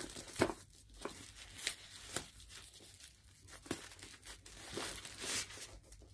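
Product packaging being handled and opened by hand: crinkling and tearing rustles with scattered small clicks and taps.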